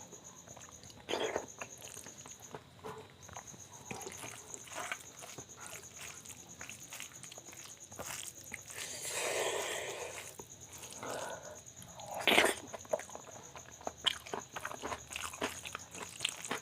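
Close-miked mouth sounds of a person eating soft rice with mashed potato and dal bharta: wet chewing, smacks and small clicks, with a louder smack about twelve seconds in.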